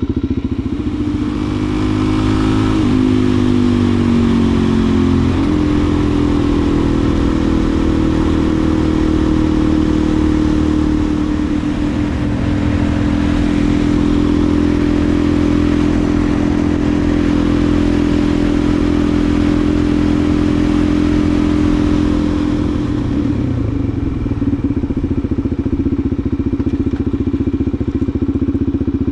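Suzuki DR-Z400SM single-cylinder engine under way, pulling up in pitch through two gear changes in the first few seconds. It then holds a steady cruise and eases off about three-quarters of the way through, with wind noise over the on-bike microphone.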